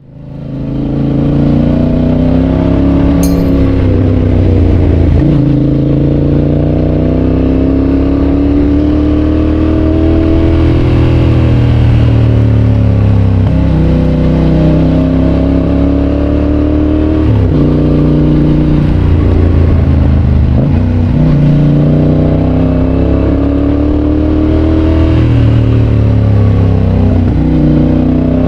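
Yamaha Tracer 7's 689 cc parallel-twin engine through an aftermarket GPR exhaust, under way and accelerating. The pitch climbs and then drops sharply several times as it changes gear with the quickshifter.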